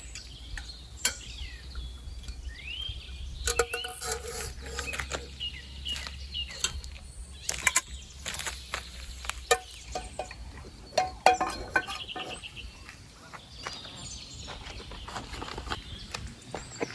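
Irregular clicks, knocks and clatter of objects being handled, with a few short bird chirps near the start.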